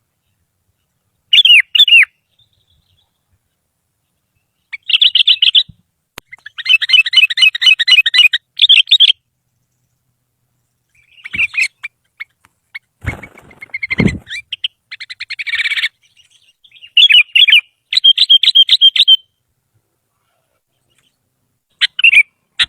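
Sooty-headed bulbul (kutilang) singing in repeated short bursts of rapid, bubbly, warbling notes with silent gaps between, and a brief low rumble about halfway through.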